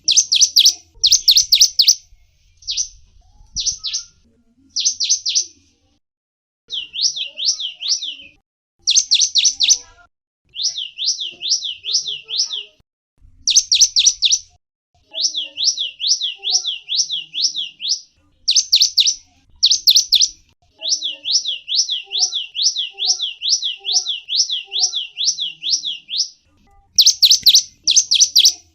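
A small songbird singing in phrases of quick, high chirps that each slide downward. Some phrases run on into long trills of about five notes a second, with a few louder, sharper chirps between them.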